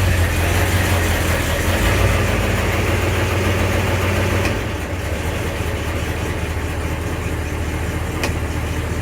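International Harvester 1210 pickup's V8 engine idling just after a cold start on choke, its exhaust going through a Walker SoundFX universal muffler. About halfway through, the idle drops and gets quieter, then holds steady.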